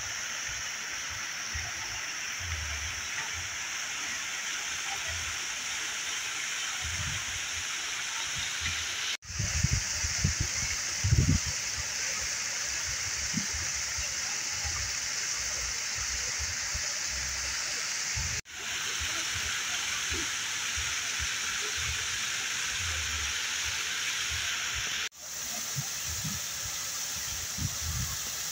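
Waterfall's rushing water, a steady roar of white water. The sound breaks off abruptly three times and resumes at once, as the shot changes. A few irregular low thumps come around ten seconds in.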